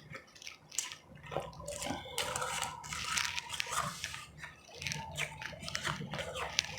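Close-miked chewing of powdery, refrozen ice chips: irregular crisp crunches mixed with wet, squishy chewing as the ice melts in the mouth.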